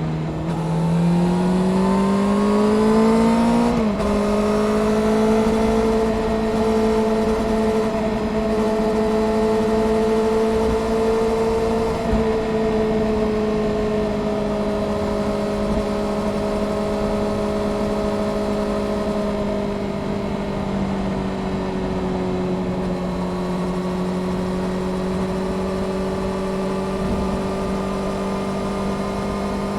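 Honda CBR600F Sport's inline-four engine pulling up through the revs for about four seconds, then a quick upshift, then a steady cruise at constant revs.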